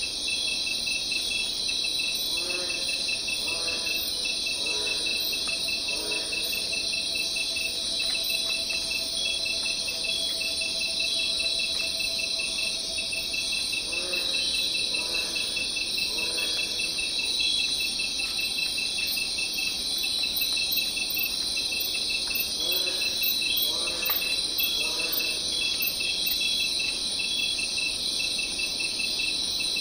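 Dense chorus of crickets and other insects: a steady high buzz with fast, even chirping. Three times, a short series of three or four lower calls about a second apart rises over it.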